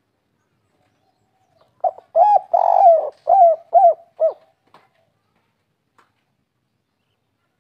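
Spotted dove cooing one song phrase. It opens with a short note and a longer rolling coo, then ends in three short 'kuk' notes, the 'kuk 3' song type.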